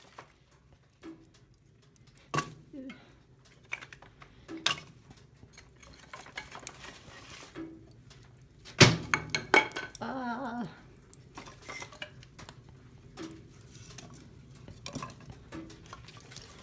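Dishes and cutlery clinking and clattering in a string of short, irregular knocks, the loudest about nine seconds in.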